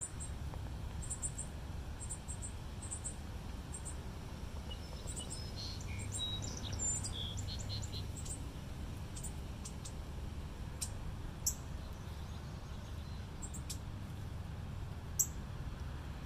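Small birds chirping: short high calls, some in quick pairs, in the first few seconds, a run of lower chirps around the middle, and a few sharp high ticks later on, over a steady low rumble.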